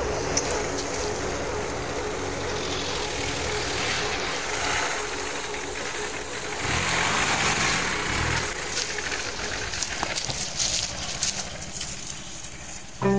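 An off-road 4x4's engine running as it drives over a rough dirt track, getting louder about halfway through, with scattered clicks and knocks in the second half.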